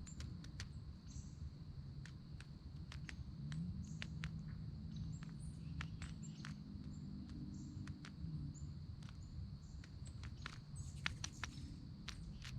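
Downy woodpecker pecking at a feeder: irregular sharp taps, some in quick clusters near the end. Short high bird chirps come in between, and a low steady hum rises in about three seconds in and fades out after eight.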